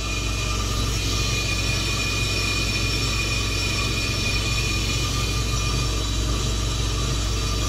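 Ammco 4000 brake lathe running steadily while skimming a car's front brake rotor: an even motor hum with a thin, steady high tone over it.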